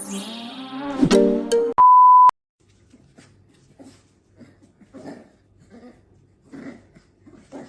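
Music that stops about two seconds in, followed by a loud steady beep lasting about half a second. Then faint soft sounds repeat about once a second over a low hum.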